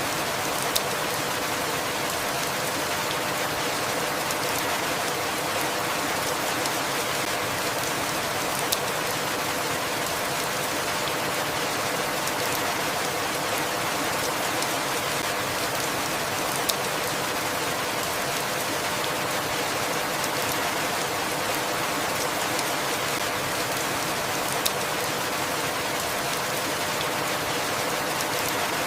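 Steady, even rainfall with no change in strength, and a short sharp tick about every eight seconds.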